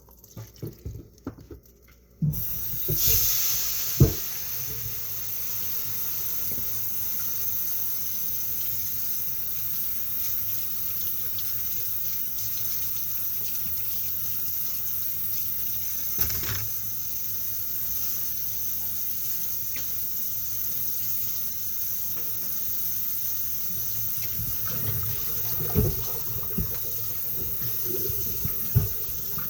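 Kitchen tap turned on about two seconds in and running steadily into the sink, with a few sharp knocks of dishes or utensils in the sink.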